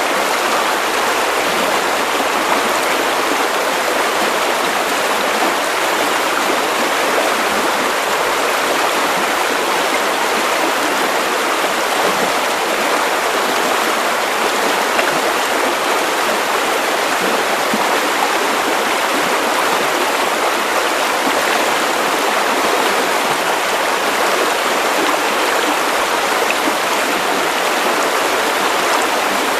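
Steady white noise: an even, unchanging hiss, strongest in the middle and upper range, with little bass.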